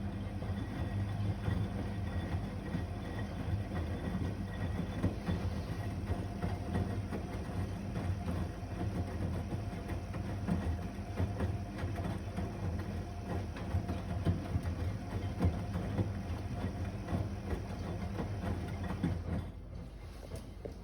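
AEG Öko Lavamat 72620 front-loading washing machine turning its drum on the wash action: a steady motor hum with the laundry and water tumbling and knocking irregularly inside. The drum motor stops near the end and the sound falls away.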